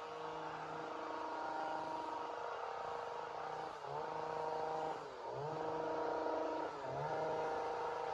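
Two-stroke chainsaw running at high revs with a steady, high engine note. The revs drop briefly and pick up again three times, about 4, 5 and 7 seconds in, as the chain is loaded in the cut.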